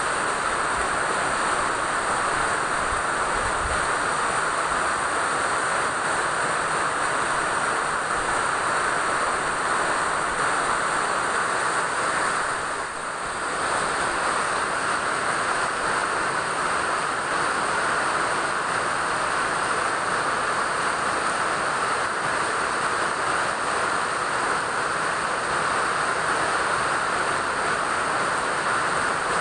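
Steady rain falling, an even hiss that eases briefly about halfway through.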